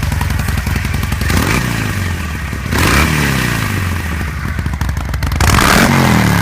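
Harley-Davidson V-twin motorcycle engine idling and being revved with short throttle blips, the revs rising and falling three times.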